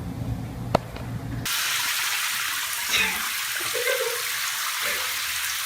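A low steady hum with one sharp click, then, about a second and a half in, an abrupt change to a steady hiss of running water from a tap.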